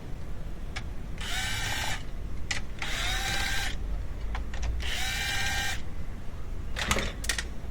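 A handheld power driver runs in three short bursts, each spinning up briefly in pitch, with a few sharp clicks of metal between the bursts.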